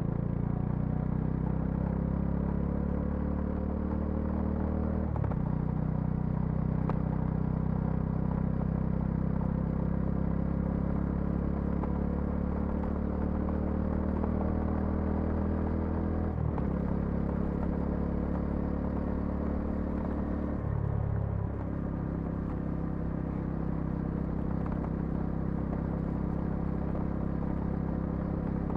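Bajaj Dominar 400's single-cylinder engine and exhaust on the move, pulling steadily with the pitch climbing slowly. It breaks off sharply about five, sixteen and twenty-one seconds in, as gears change, and picks up again each time.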